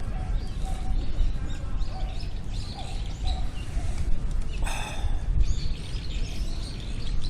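Small birds chirping and calling over a low steady rumble, with one louder, harsher call about five seconds in.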